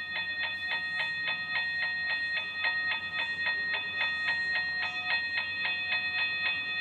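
A toy railroad crossing gate's battery-driven mechanical bell ringing, struck rapidly and evenly about four times a second. The strikes stop near the end, leaving the bell's ring to fade.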